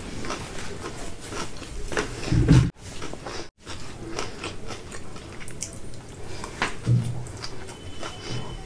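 A person chewing and biting noodles, with scattered small wet clicks and a couple of louder low thumps. The sound cuts out briefly twice around three seconds in.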